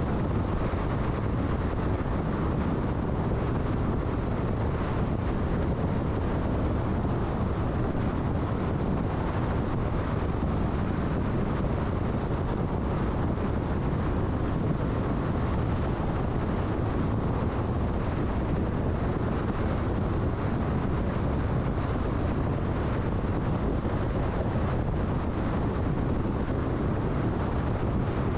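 Steady road and wind noise of a car travelling at freeway speed, an even rush without changes.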